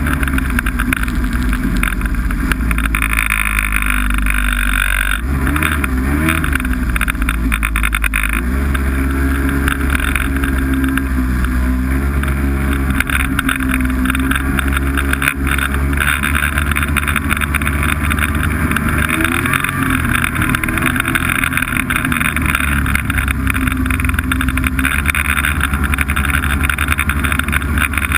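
Snowmobile engine running under way, its pitch wavering up and down in the first eight seconds and then holding mostly steady.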